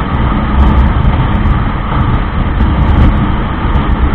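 Motorcycle on the move: a loud, steady rush of wind on the microphone over the engine's running noise.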